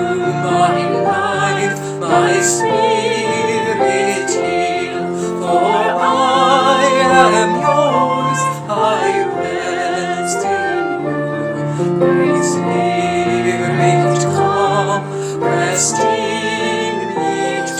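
A hymn sung in a classical style by a female voice with strong vibrato, over sustained instrumental accompaniment.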